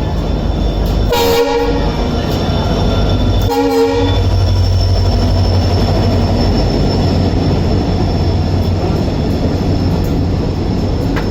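Two short train horn blasts about two seconds apart, heard over the steady low rumble of a running passenger train.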